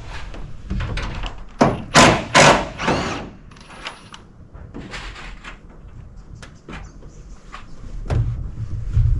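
Knocks and bangs on sheet-metal roof panels being handled: four loud knocks close together a couple of seconds in, one ringing briefly, then scattered lighter taps.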